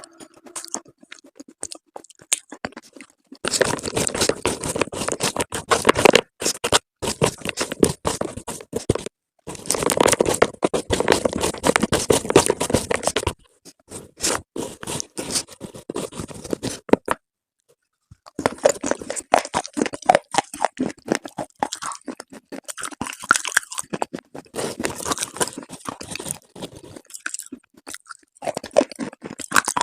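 Close-miked crunchy chewing of slate pieces, a dense crackle of breaking bits in the mouth. It comes in runs of several seconds, with short pauses about a third of the way in, at about 13 s, about 17 s, and near the end.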